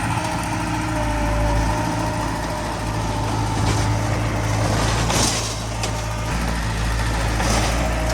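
Diesel engine of heavy earthmoving machinery running steadily, with short rushing noises about four, five and seven and a half seconds in.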